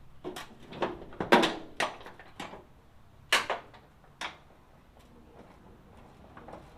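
Irregular knocks and clanks of hands and tools working on a square-body crew cab truck's door, about seven sharp hits in the first four and a half seconds, loudest about a second and a half in, then quiet.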